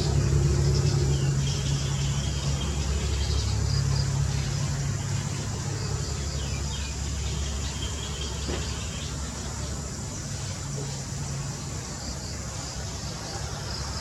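A low, steady engine hum that slowly fades, with faint high chirps of birds or insects over it.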